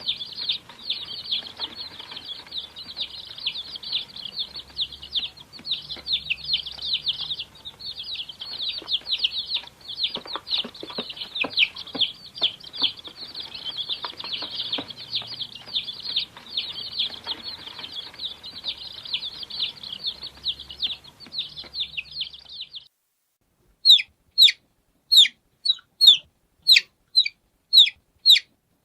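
Baby chicks peeping many at once in a dense, unbroken chorus of high cheeps. About 23 seconds in it cuts off, and a single chick's sharp, falling peeps follow, about two a second.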